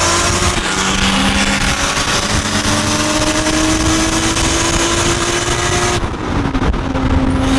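Car engine pulling hard, its pitch climbing slowly, then cutting back suddenly about six seconds in as the driver shifts or lifts off, settling to a steadier note.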